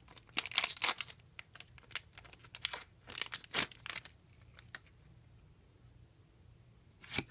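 Foil trading-card booster-pack wrapper crinkling and tearing in a run of crackles. The crackles stop about four seconds in, and one more short rustle comes near the end.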